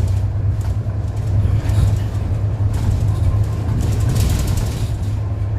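City bus running along the road: a steady low engine drone under rumbling road and tyre noise. There is a brief hiss about four seconds in.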